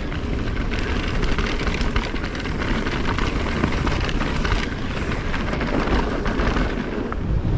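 Mountain bike riding down a dirt trail: a steady rushing of wind and tyre noise, heaviest at the low end, with many small rattles and clicks from the bike.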